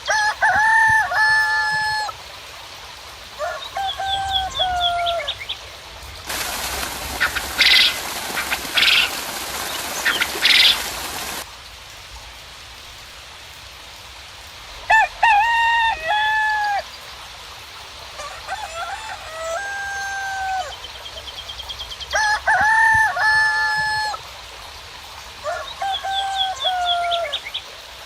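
Roosters crowing again and again, about five crows of a second and a half or so each, with faint small-bird chirps between them. From about six to eleven seconds a steady hiss cuts in and out abruptly, with three sharp louder bursts inside it.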